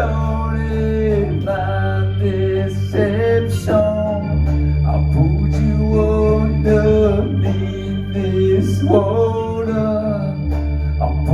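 Live band music: sustained organ-like chords over a bass line that changes every second or two, with a gliding, bending melody line on top.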